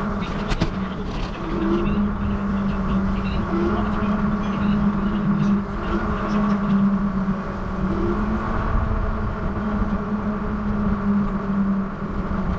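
Wind rumbling over the microphone of a rider on a moving bicycle, with a steady hum from the ride underneath.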